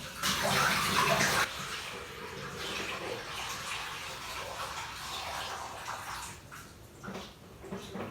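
Condensed water from a tumble dryer's collection tank being poured away: a heavy gush for the first second and a half, then a steadier pour that tails off about six and a half seconds in.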